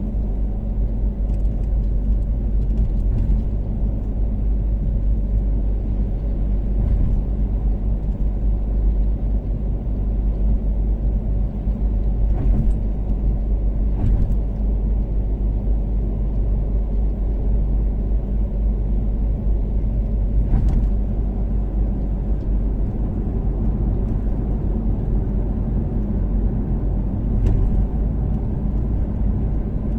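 Toyota Caldina ST246W with its 3S-GTE turbocharged inline-four and ATR Sports2 muffler cruising at a steady speed on an expressway: an even engine and road rumble that holds one pitch, with a few brief faint thuds along the way.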